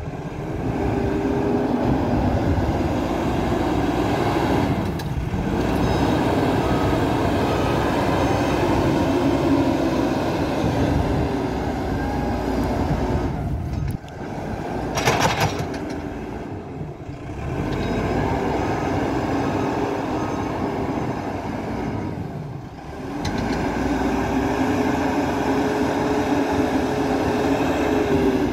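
Diesel engine of an MST 642S backhoe loader running under working load, its note rising and falling repeatedly as it revs and settles. There is a brief burst of noise about fifteen seconds in.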